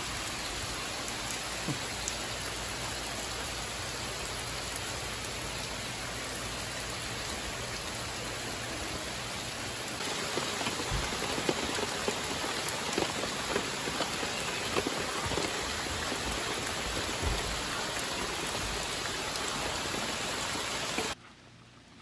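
Steady rain falling, an even hiss with scattered drip taps. About halfway through it gets a little louder with more distinct drips, and near the end it falls away suddenly to a much quieter patter.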